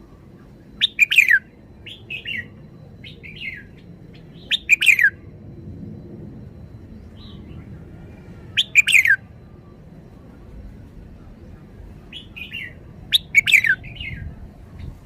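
Red-whiskered bulbul singing: short phrases of quick whistled notes sliding downward, loud ones about every four seconds with softer phrases between.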